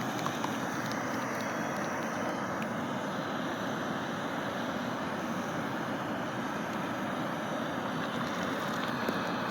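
A steady rushing noise from the fire under a boiling pot of ramen, with a few faint crackles.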